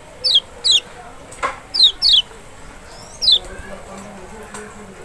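Lemon-bellied white-eye (Lombok kecial) calling: five short, high whistled notes, each sliding sharply downward, mostly in quick pairs. Two faint clicks are also heard.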